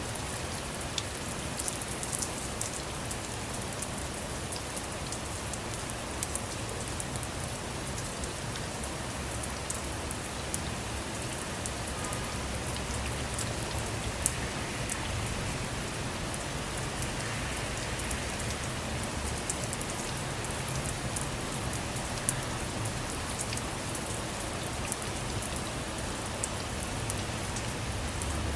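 Steady rain falling on a car, with many individual drops ticking sharply over an even hiss and a low rumble underneath.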